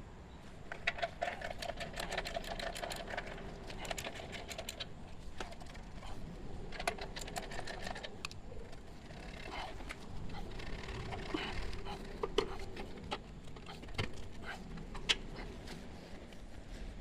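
Hand tools at work on a motorcycle exhaust: runs of rapid mechanical clicking with scattered clinks and knocks of metal parts.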